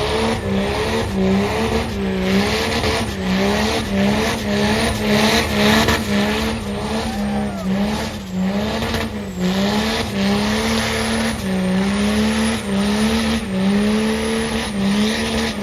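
Truck doing a burnout: its engine is held at high revs, the pitch dipping and recovering over and over, over the hiss of spinning tyres.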